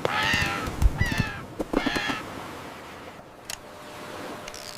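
Seagulls squawking: three harsh calls in quick succession over the first two seconds or so, with a few short knocks. Then it falls quieter.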